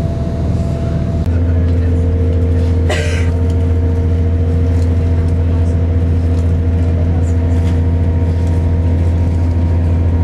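Diesel train's engine and running gear droning steadily inside the carriage, growing louder about a second in as it pulls harder. A brief hiss about three seconds in.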